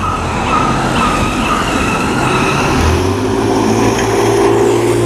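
First-generation Honda NSX's V6 engine running as the car drives along a street, its note growing louder and fuller about halfway through, over steady traffic noise.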